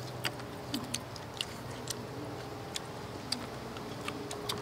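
Close-up eating sounds: irregular sharp clicks and smacks of chewing, about two a second, over a faint steady hum.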